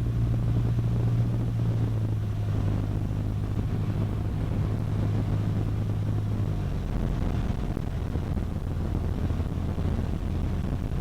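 Cessna 152's four-cylinder Lycoming engine and propeller droning steadily, heard from the cockpit; the engine note drops slightly about two-thirds of the way through.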